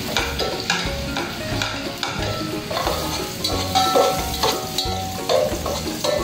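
Garlic sizzling in hot oil in a steel stockpot on a high gas flame, stirred with a metal spoon that scrapes and clinks against the pot in short repeated strokes.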